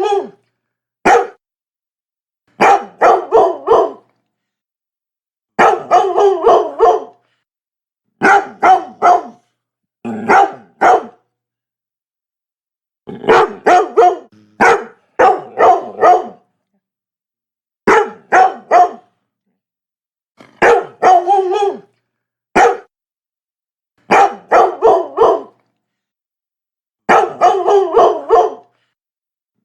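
Labrador barking in quick runs of one to about six barks, the runs coming every couple of seconds with dead silence between them.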